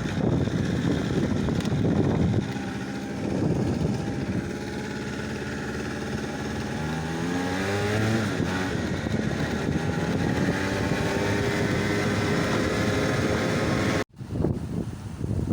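An engine running steadily, its pitch rising and falling about halfway through, with a brief cut-out near the end.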